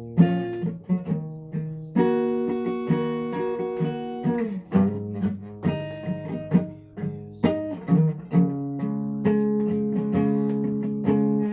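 Guitar playing on its own: strummed and picked chords, each stroke sharp at the start with the notes ringing on between strokes.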